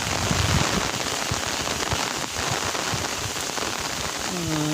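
Steady rain falling on the field, a dense even hiss with scattered small taps. A man's voice sounds briefly near the end.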